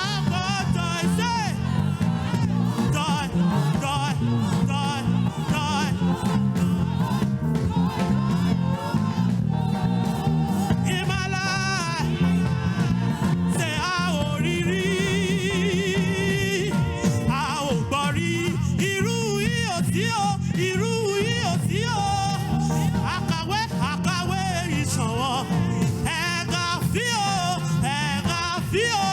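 Gospel praise and worship singing with instrumental backing, voices carrying a melody over a steady band accompaniment.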